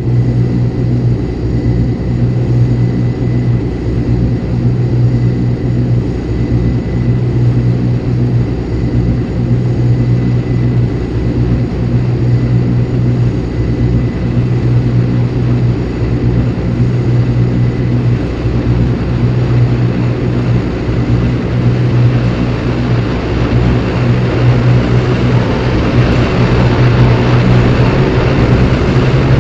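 Aircraft engine noise droning steadily, with a faint high whine held throughout. A broad rushing sound grows louder in the last several seconds.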